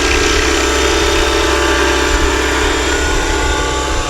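Electric 600-size RC helicopter, Align T-Rex 550e mechanics in a Roban Airwolf scale fuselage, hovering in flight: a steady whine from the motor and main rotor.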